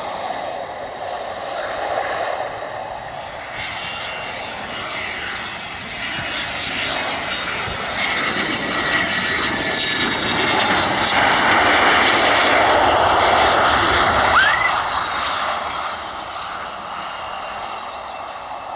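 F-16 fighter jet's single turbofan engine on approach to land, passing close by: a jet rumble with a high whine that slowly falls in pitch, loudest from about eight to fourteen seconds in, then fading.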